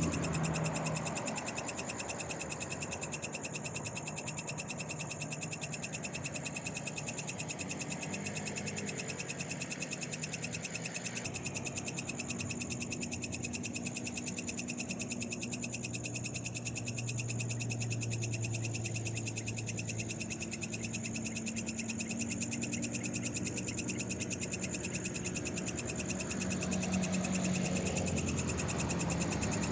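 Night chorus of frogs and insects calling steadily, with a fast, high-pitched trilling that never lets up. Under it, a low hum of vehicles on the road swells near the end.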